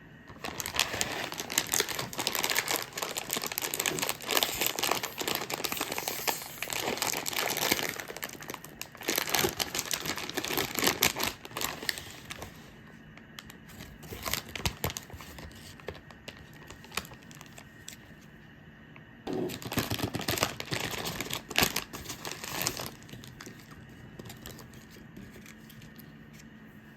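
Crinkling and rustling, in a long stretch of dense crackle, a lull with scattered crackles, then a second shorter stretch.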